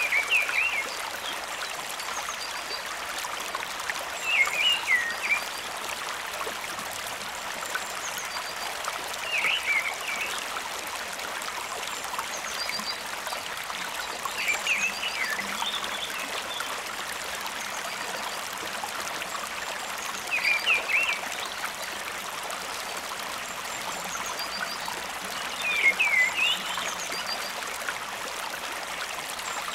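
Steady rushing of water flowing at a waterfall stream. A short, sweeping animal call repeats about every five to six seconds over it.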